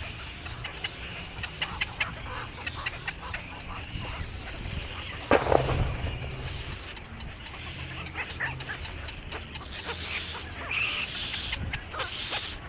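Small birds chirping in many short, quick calls over a low steady hum, with one louder sound about five seconds in.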